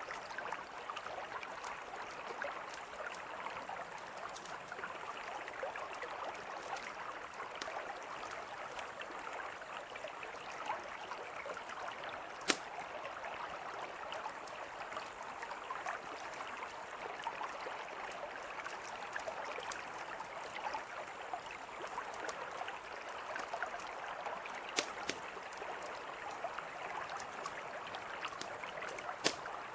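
Mountain river flowing steadily, with a campfire crackling: a scattering of sharp pops, the loudest one about twelve seconds in and two more near the end.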